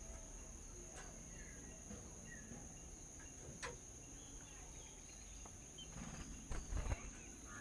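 Steady high-pitched insect drone, typical of crickets, with scattered short bird chirps. A couple of sharp clicks, and near the end a brief louder burst of rustling and thumps.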